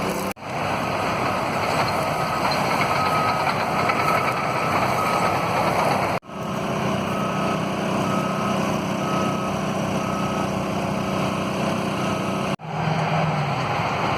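Heavy demolition machine's diesel engine running steadily, with a faint, evenly spaced beeping about twice a second. The sound drops out sharply twice, where clips are joined.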